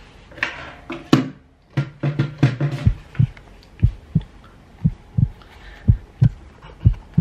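A heartbeat-like sound effect: a low lub-dub double thump about once a second, starting about three seconds in. Before it come a few sharp clicks and knocks as a desk telephone handset is picked up.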